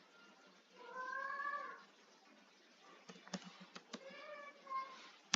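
Two drawn-out high-pitched calls, each about a second long, rising a little and then falling, with a few computer keyboard key clicks between them.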